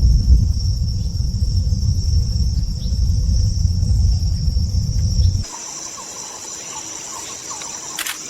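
Steady high-pitched chorus of crickets or similar insects over a loud low rumble; the rumble stops abruptly about five seconds in, leaving the insect chorus with a few faint chirps.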